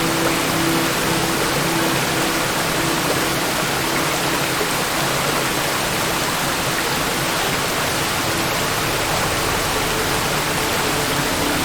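Waterfall: a steady, even rush of water falling.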